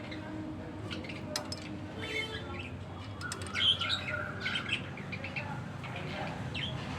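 Small pet birds chirping, with short high calls that come thickest and loudest a few seconds in.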